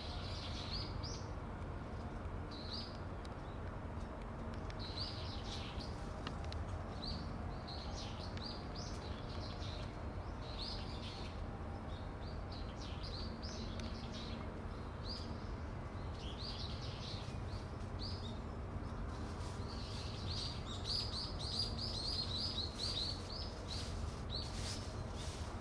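Small birds chirping: many short, high chirps in quick runs, busiest near the end, over a steady low rumble.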